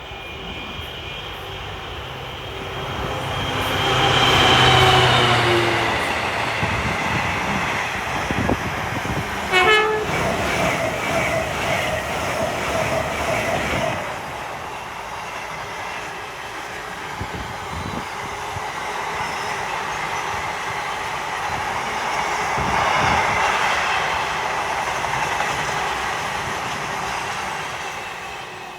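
Class 66 diesel freight locomotive, with its two-stroke V12 engine, passing at speed with its wagons, the engine note swelling and falling as it goes by. A steady tone is held from about ten to fourteen seconds in, and the rolling noise swells again near the end before fading.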